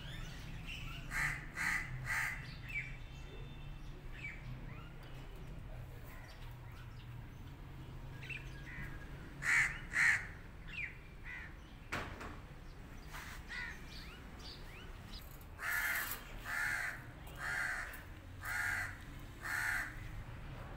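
A bird calling repeatedly with short calls: three about a second in, two near the middle, and a run of five near the end. A single sharp click comes about halfway through.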